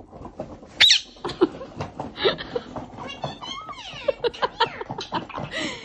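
People laughing, with a pet bird's short, sharp high call about a second in.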